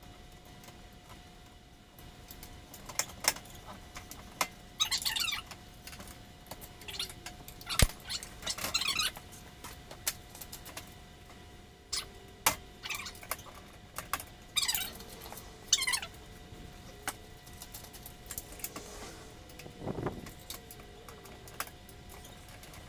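Intermittent metallic clicks, clinks and short jingling rattles of hand tools and small metal parts being handled during repair work, over a faint steady hum.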